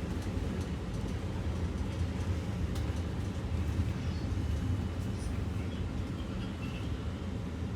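Steady low rumble inside the cabin of a Ford-based Blue Bird G5 electric school bus, with faint light rattles and ticks.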